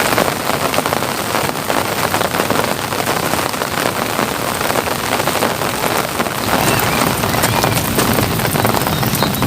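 Light rain falling steadily, with a dense patter of individual drops. About two-thirds of the way in, a low steady hum joins it.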